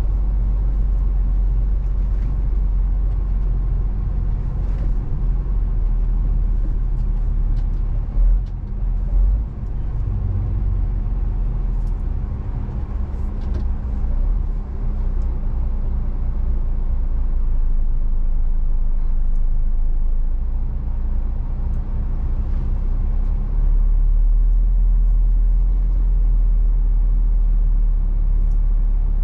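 Scania 450 truck's diesel engine and road noise heard from inside the cab while driving: a steady low rumble, with two brief louder low thumps about eight and nine seconds in and a somewhat louder, deeper run near the end.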